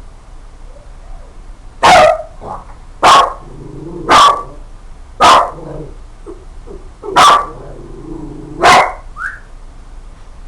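A dog barking loudly, six sharp barks spaced about a second or so apart, with a short higher yelp near the end.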